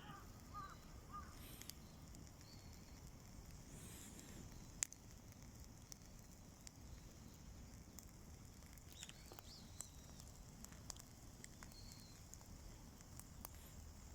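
Campfire crackling faintly, with scattered sharp pops of burning wood and one louder snap about five seconds in.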